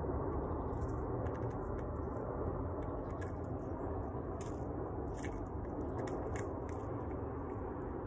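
Scrub-jay foraging close by in dry leaves: light, irregular clicks and crackles of its beak and feet, over a steady low background rumble.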